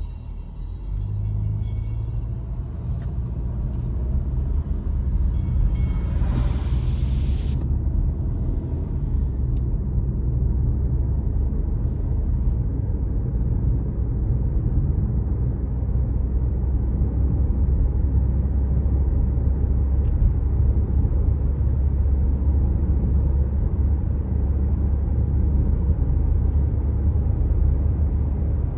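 Car driving along a road: a steady low rumble of engine and tyres that grows louder over the first few seconds. A short hiss about six seconds in.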